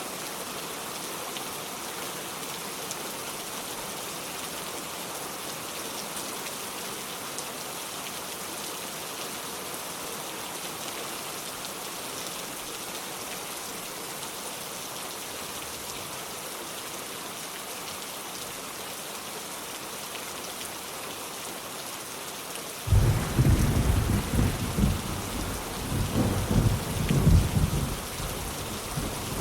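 Heavy rain falling steadily on a metal roof. About three-quarters of the way through, a loud peal of thunder breaks in suddenly and rolls on as a deep rumble that swells twice.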